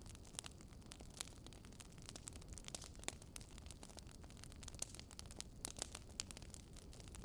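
Wood fire crackling: a steady low rumble with frequent irregular sharp pops and snaps.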